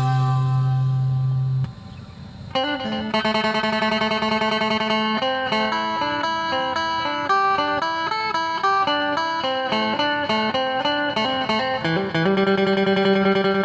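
Electric phin, the plucked Isan lute, playing an instrumental tune: quick picked melody notes over held drone notes, with a short dip in level about two seconds in before the playing picks up again.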